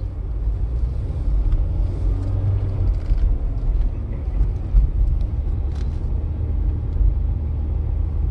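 Car driving, with a steady low rumble of engine and road noise heard inside the cabin.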